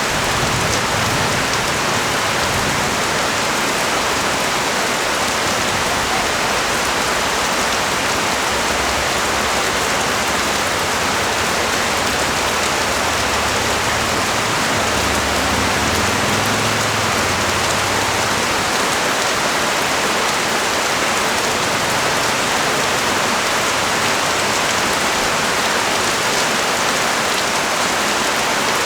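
Steady rain falling on the street and surfaces below a balcony: an even, unbroken hiss of many drops. A low rumble swells briefly about halfway through.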